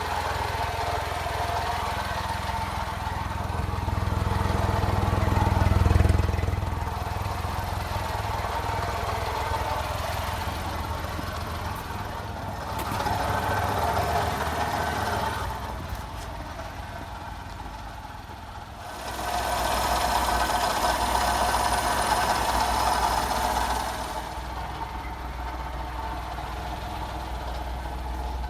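Daihatsu Hijet kei dump truck's small engine running with a steady low hum, getting louder three times: about five seconds in, in the middle and again after about nineteen seconds.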